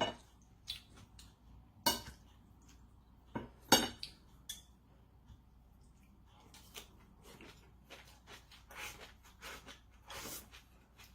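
Eating utensils clinking against a bowl or plate during a meal: a few sharp clinks about two seconds apart, then lighter taps and soft scraping.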